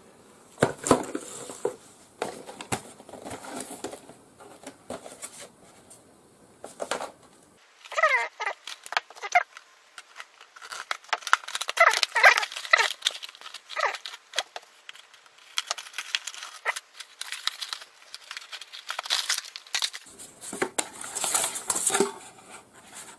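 Packaging being handled and opened: irregular crinkling and rustling of plastic wrap, with tearing and sharp clicks and taps, coming in clusters with quieter gaps between them.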